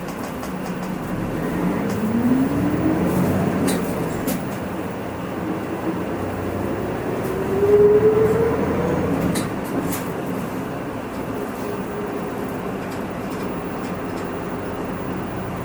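Hino Rainbow II one-step bus heard from inside the cabin, its diesel engine pulling as the bus accelerates. The engine note rises twice, once early on and again more strongly about eight seconds in, with small rattles and clicks from the interior.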